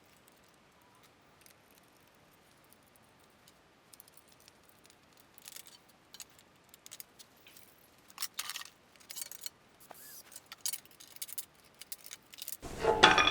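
Scattered light clicks and taps of metal tools being handled, irregular and sparse, with a louder burst of rattling near the end.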